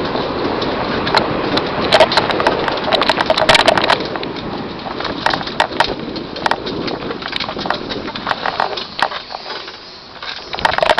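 Mountain bike riding down a rough downhill trail: a steady rush of tyres on dirt, broken by many sharp clatters and knocks as the bike goes over rough ground. The clatter is busiest about two to four seconds in and eases off near the end.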